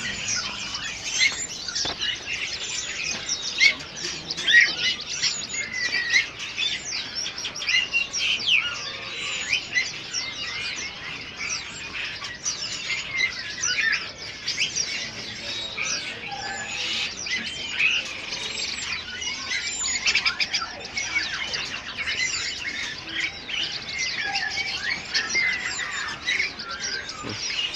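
Many caged songbirds chirping and twittering at once, a dense chorus of short, high-pitched overlapping calls with no pause.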